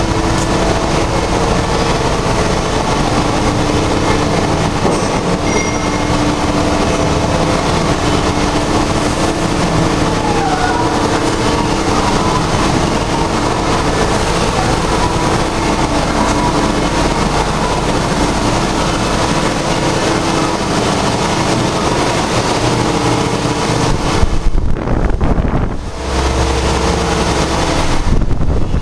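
Loud, steady mechanical din of machine-shop machinery running, with a steady hum underneath; about 25 seconds in the higher part of the sound briefly drops away before it picks up again.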